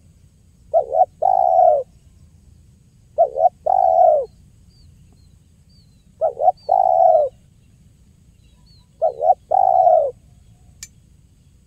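Spotted dove (tekukur) cooing: four calls about three seconds apart, each made of two short notes followed by one longer note. Faint high chirps of a small bird sound behind it, and there is a single sharp click near the end.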